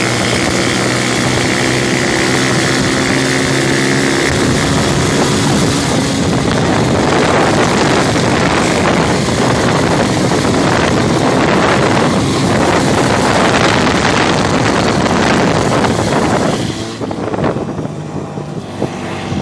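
Motorcycle engine running under way, with wind rushing over the microphone. A steady engine note is clear for the first few seconds, then rough wind noise dominates until it falls away near the end.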